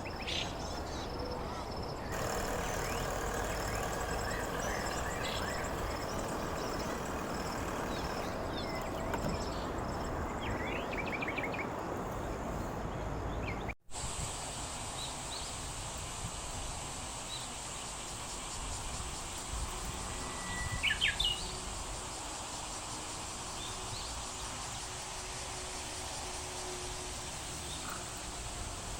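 Outdoor riverside ambience: a steady noisy background with a fast, repeating high insect call over the first half and a few short bird chirps, one cluster about two-thirds of the way in.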